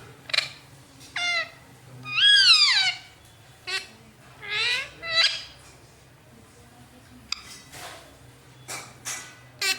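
Indian ringneck parrot giving a string of short pitched calls, some sliding down and some up in pitch; the longest, loudest call comes about two seconds in. A few sharp clicks fall between the calls.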